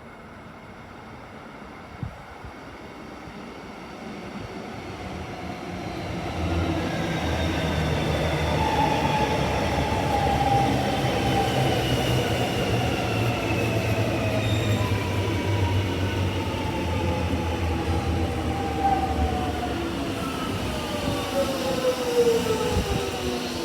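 Electric suburban train arriving, growing louder from about five seconds in, with a low rumble and several whining tones that fall slowly in pitch.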